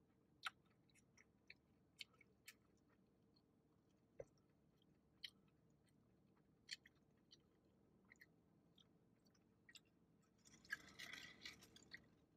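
Faint close-up chewing of a soft cinnamon sugar pretzel, with scattered wet mouth clicks and smacks. A brief rustle comes near the end.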